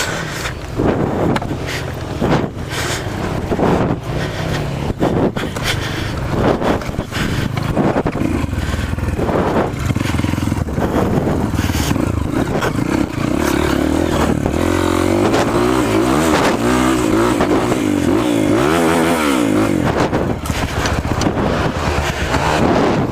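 Off-road trail motorcycle engine running while riding rough ground, with frequent knocks and rattles in the first half. In the second half the engine note rises and falls several times as the throttle is worked.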